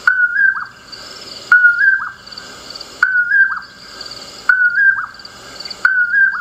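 Common poorwill repeating its whistled two-note "poor-will" call about once every one and a half seconds, five times. Each call is a short level whistle that steps slightly up and ends in a quick downward slur.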